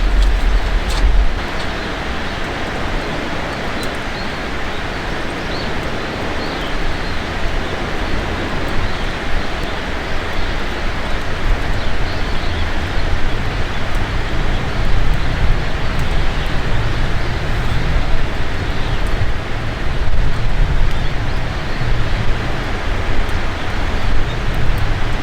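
Outdoor ambience dominated by wind buffeting the microphone: a steady rushing noise with gusting low rumble that grows stronger in the second half, and a few sharp clicks near the start.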